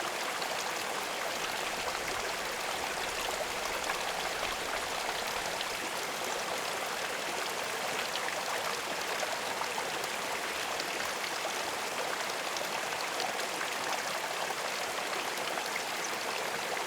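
Running water, as from a stream or trickling inflow feeding the pond: a steady, even rush with no breaks.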